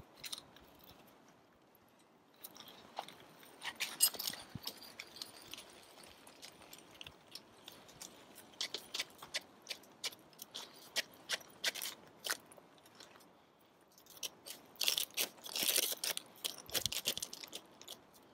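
Ice screw being turned by hand into lake ice: irregular crunching and scraping clicks that come in bursts, loudest near the end.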